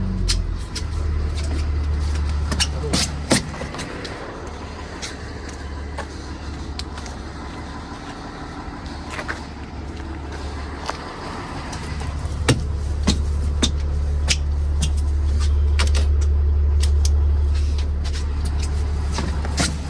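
A school bus running with a low drone that drops away about four seconds in and comes back around twelve seconds, with scattered sharp clicks and taps throughout.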